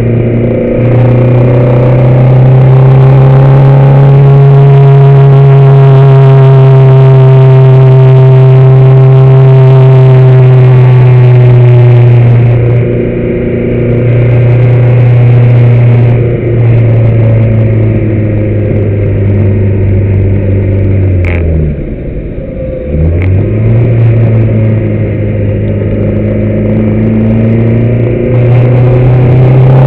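Car engine heard from on board, running loud at fairly steady revs under load. There are brief dips in the revs about halfway through. Near the end the revs drop sharply, with a couple of sharp clicks, then pick up and climb again.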